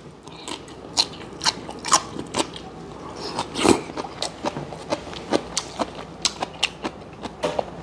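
A man chewing a mouthful of spicy braised seafood (haemul-jjim) close to a clip-on microphone: irregular mouth clicks and smacks, about two a second, with one louder smack a little before the middle.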